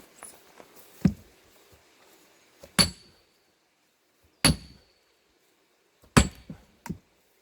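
Four heavy hammer blows on a steel splitting wedge driven into a big plane-tree log, about one every second and a half to two seconds. The first blow is dull; the next three ring out with a short metallic clang. A few lighter knocks follow the last blow.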